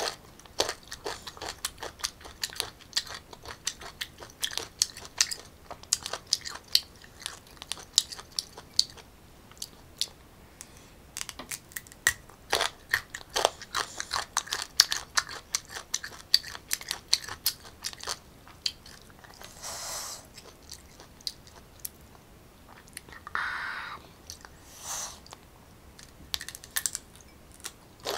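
Close-up crunching and chewing of crisp raw green mango: many sharp, crisp bites and mouth clicks throughout, with a few short hissing sounds in the second half.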